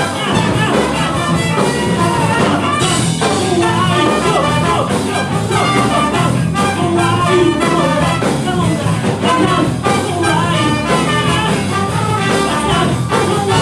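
Live band playing funk with a brass section, loud and dense over a steady beat.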